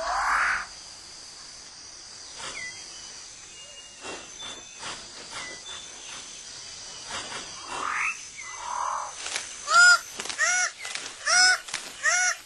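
Tropical rainforest ambience: a steady high insect drone with scattered rising bird calls. From about ten seconds in comes a rapid series of repeated arched calls, about two a second.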